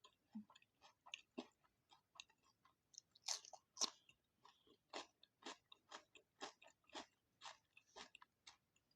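A person chewing food close to the microphone, with crisp crunching clicks. The two loudest crunches come about three and a half seconds in, then the chewing settles into a steady rhythm of about two chews a second.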